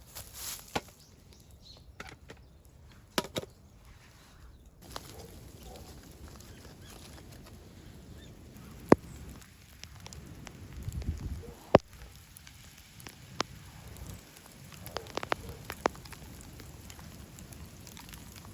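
Wood fire crackling, with scattered sharp pops, the loudest two about nine and twelve seconds in.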